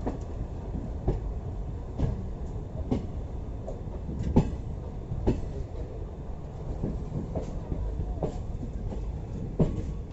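Passenger train coaches running along the track: a steady low rumble broken by irregular sharp clicks and knocks as the wheels pass over rail joints, with a louder knock about four seconds in.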